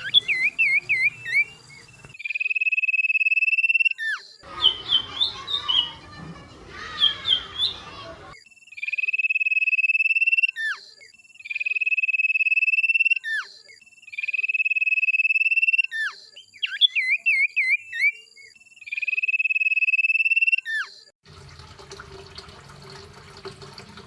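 Songbird calls from a bird-training ('masteran') recording. High, steady trills about two seconds long repeat five times, alternating with rapid up-and-down warbling chirps and a sharp falling note after each trill. The calls stop about three seconds before the end, leaving only faint background noise.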